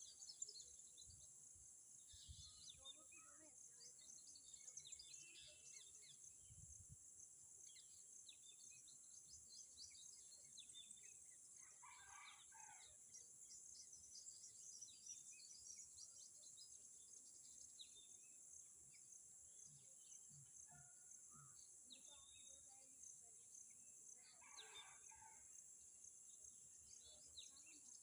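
Faint parrot chatter: scattered soft chirps, with two louder calls about twelve and twenty-five seconds in, over a steady high-pitched hiss.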